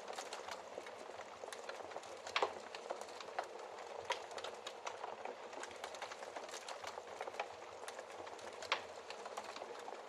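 Wood fire burning in a fireplace: a steady soft hiss with frequent small crackles and a few louder pops, the loudest about two and a half seconds in and near the end.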